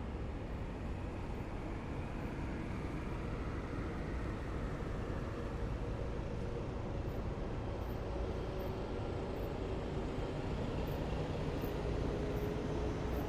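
A column of heavy military vehicles drives past: a steady low engine rumble with a faint whine, growing slowly louder.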